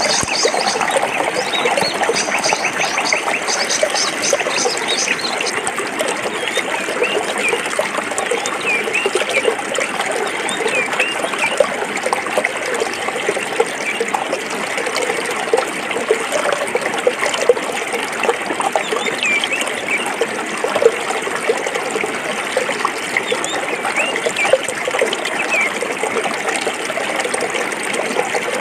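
A forest stream running over rocks: a steady rush of water with constant small gurgles and splashes. In the first six seconds or so a rapid, high-pitched repeated trill sounds over the water.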